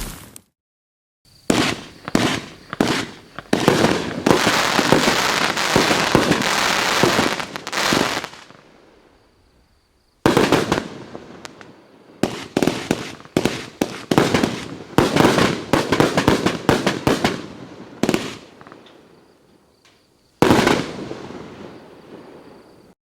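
A 22-shot 1.4G consumer fireworks cake firing: a rapid series of shots and aerial bursts, densest between about four and eight seconds in, coming in three runs separated by short silences.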